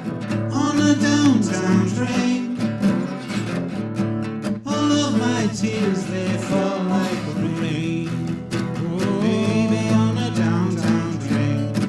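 Guitar accompaniment playing on through the song, strummed and plucked.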